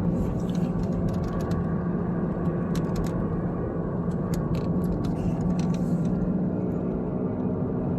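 Road and engine noise inside a 2011 Chevrolet HHR's cabin while driving and turning right: a steady drone with a constant low hum and a few faint clicks. On this right turn the car sounds normal, without the groan it makes when turning left.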